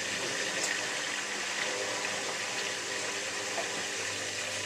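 Miele W3744 washing machine with water rushing steadily through it partway through its Minimum Iron 40 cycle, with a faint low hum underneath.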